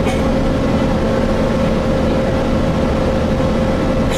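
Gillig Phantom transit bus running steadily, heard from inside the passenger cabin: diesel engine and drivetrain drone with road noise and a steady mid-pitched whine.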